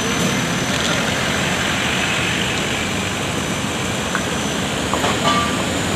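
Steady noise of heavy diesel truck engines running, with no clear change in pitch.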